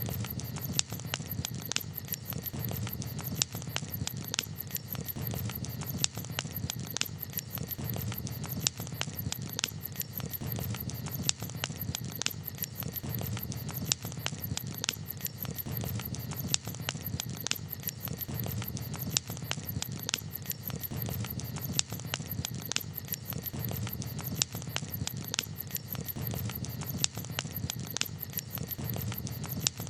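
Wood campfire crackling: irregular sharp pops and snaps, a few each second, over a steady low rumble.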